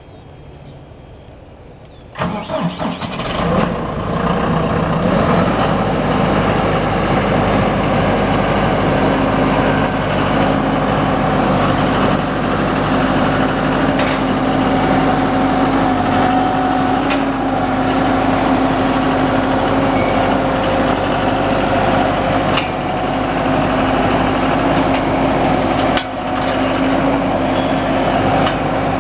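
John Deere 5100E tractor's four-cylinder diesel engine cranking and catching about two seconds in, then running steadily.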